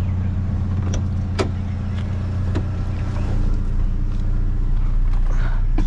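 A truck running as it drives on: a steady low engine and road hum, with a few light clicks.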